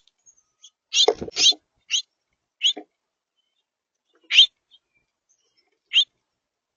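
Songbird calls at a backyard feeder: about eight short, sharp high notes at uneven intervals, with a quick cluster of three about a second in.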